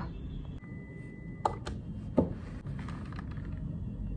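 A short steady electronic beep lasting about a second, then two sharp clicks and a knock, over a steady low room hum.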